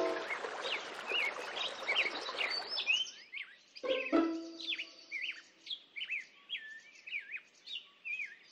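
Songbirds chirping: many quick whistled chirps that slur up and down, clear from about three seconds in, over a soft wash of noise at the start. A brief low tone sounds about four seconds in.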